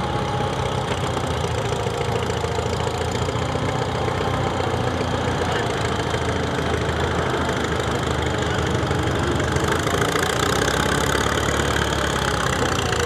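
Pulling tractor's engine running at a fairly even level.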